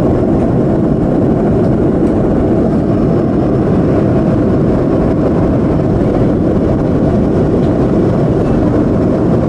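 Boeing 737-200's Pratt & Whitney JT8D jet engines running steadily in flight, an even, low-pitched noise with no change in level.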